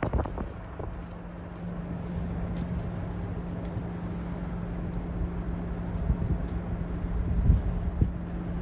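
Diesel locomotive engine running steadily with a low, even hum, with wind buffeting the microphone at the start and near the end.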